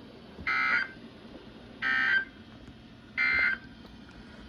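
NOAA Weather Radio end-of-message data bursts: three short, identical warbling digital tone bursts about a second and a half apart, the signal that closes the severe thunderstorm warning broadcast.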